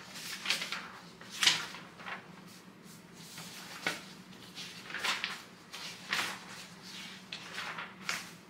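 Trading cards being handled by hand: a series of short rustles and slides of card stock, with a faint steady hum underneath.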